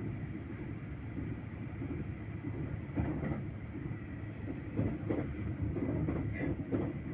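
Train running on rails: a steady low rumble, with several short knocks of the wheels on the track from about three seconds in.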